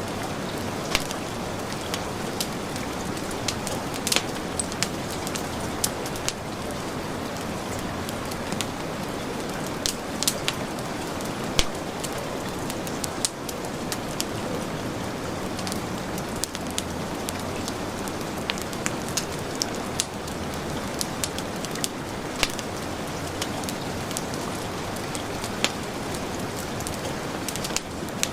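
Heavy rain falling steadily, with the irregular sharp pops and crackles of a wood fire in a fireplace.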